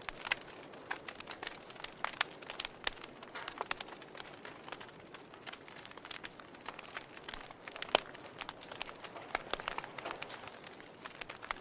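Wood fire in a fireplace crackling, with irregular sharp pops and snaps over a low steady hiss; the loudest snap comes about eight seconds in.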